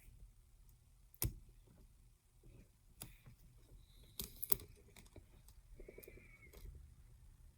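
Faint, scattered clicks and taps from small tools and adhesive tape being handled against a phone's frame. There is a single click about a second in and a quick cluster of sharper clicks a little past the middle.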